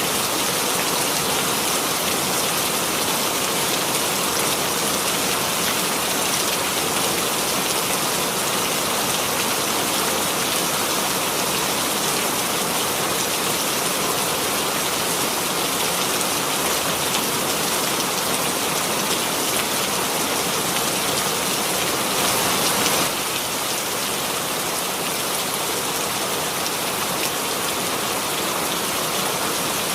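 Steady rain sound effect: dense, even rainfall hiss with no pauses. The level dips slightly about two-thirds of the way through.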